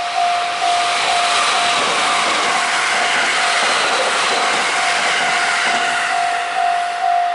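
Japanese level crossing alarm bell ringing in a steady repeating 'kan-kan' about twice a second while an electric train passes close by, its rushing wheel and running noise swelling over the bell and then fading away.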